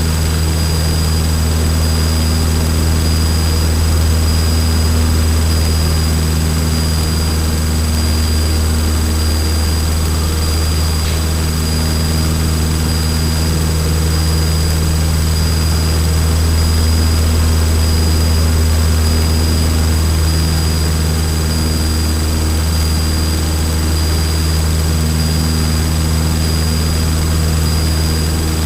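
Single-engine Cessna trainer's piston engine and propeller running at full climb power, a steady low drone heard inside the cockpit, with a few faint high steady whines over it.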